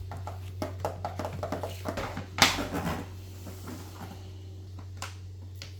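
Light clicks and knocks of small plastic toy parts being handled, with a short noisy rustle about two and a half seconds in, over a steady low hum.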